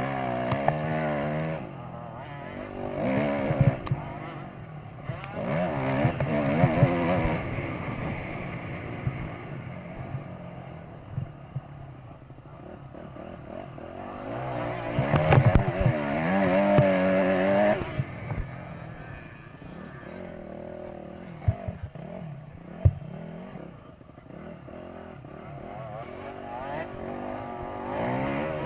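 Dirt bike engines revving up and down in repeated bursts, loudest about halfway through, with a few sharp knocks in between.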